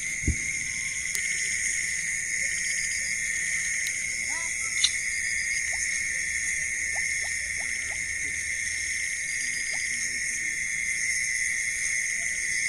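Steady night chorus of insects, an even shrill drone with higher ringing bands above it. A short low thump comes just after the start, and a sharp click about five seconds in.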